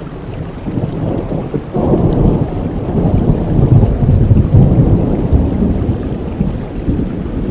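Thunder rumbling over steady rain; the rumble swells about two seconds in and eases off near the end.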